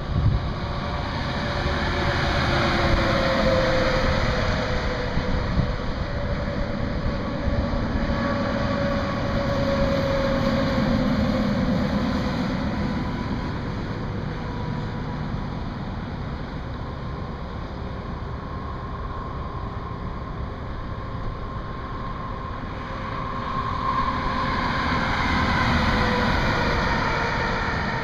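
Highway traffic passing: a steady rush of tyres and engines with faint tones sliding slowly down in pitch, swelling twice as vehicles go by and fading between.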